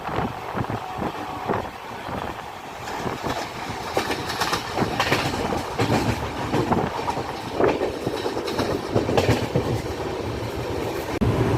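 Passenger train running, its wheels clattering over the rails with irregular clicks and knocks that grow louder a few seconds in. Shortly before the end, a louder, steady low rush sets in suddenly.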